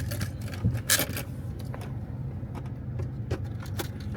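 Truck engine running with a steady low hum, with a few sharp clicks and knocks, the loudest about a second in.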